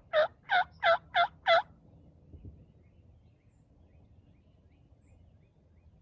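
A hunter's turkey call sounding a fast series of six loud hen yelps, about three a second, in the first second and a half.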